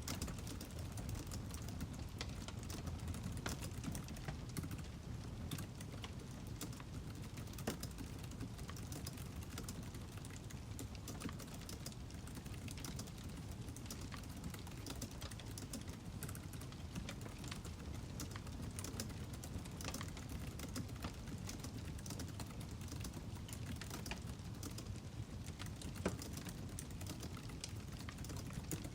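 Wood fire crackling: a steady low rumble of burning logs with irregular sharp pops and snaps, one louder snap near the end.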